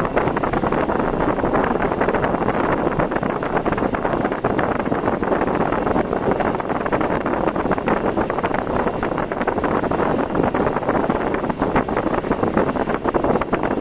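Steady rushing noise of a car driving in typhoon weather, with wind, rain and road noise blended together and many small irregular ticks through it.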